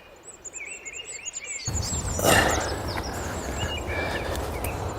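Small birds chirping over and over in short, high, repeated calls, with one brief rustling thud a little over two seconds in.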